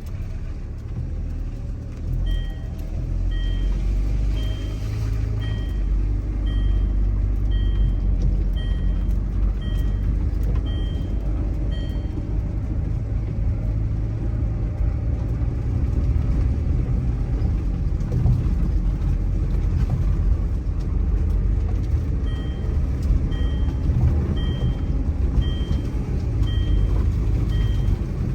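Heavy vehicle or machine engine running with a steady low rumble while its reversing alarm beeps evenly, about one and a half beeps a second, for about ten seconds, then starts again near the end.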